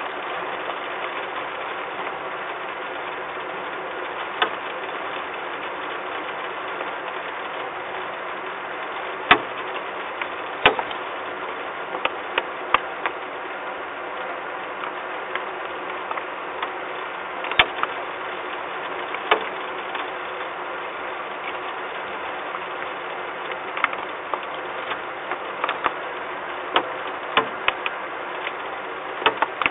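Steady rain, an even hiss with scattered sharp ticks of drops striking hard surfaces.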